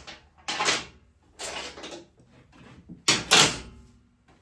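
Short handling noises from working on the motorcycle: about four brief scraping clunks, the loudest a double one about three seconds in.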